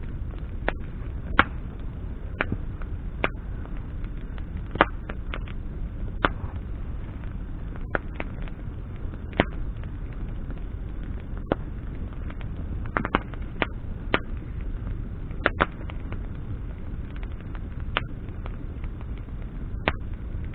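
Bonfire of branches burning: sharp, irregular crackles and pops, roughly one a second, over a steady low rumble.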